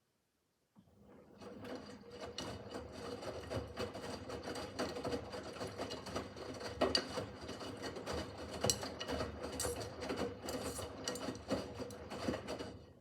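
Miele W5801 WPS washing machine turning its drum during a wash cycle: a motor hum with the laundry tumbling and clattering, starting about a second in and stopping at the end.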